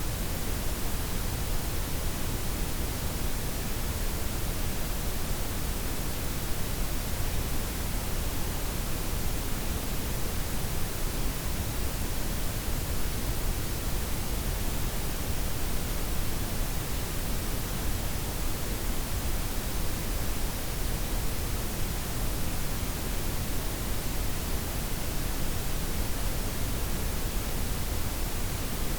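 Steady blend of white, pink and brown noise: an even, unchanging hiss with the most weight low down and the highs rolled off.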